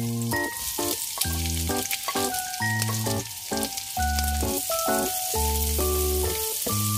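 Chopped garlic and sliced onion sizzling in hot oil in a frying pan as a spatula stirs them, with background music playing over it.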